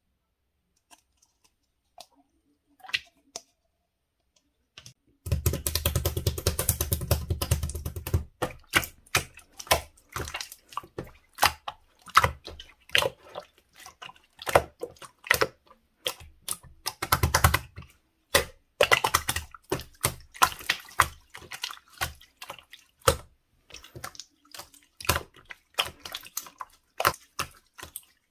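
Slime being squished and pressed by hand, making sticky clicks and pops. After a few seconds of near quiet, a dense crackle runs from about five to eight seconds in, then separate pops come one or two a second.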